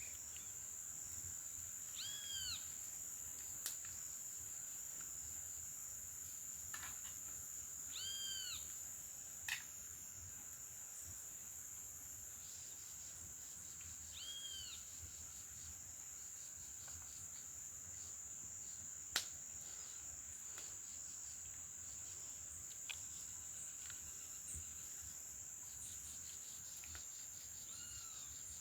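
Steady high-pitched drone of insects, crickets or similar, with a bird repeating a short rising-and-falling call four times, about every six seconds. A few sharp clicks stand out, the loudest about two-thirds of the way through.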